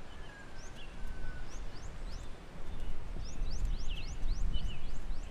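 Birds calling in many quick, short, rising chirps, thickest in the second half, with two thin held whistled notes near the start, over a fluctuating low rumble.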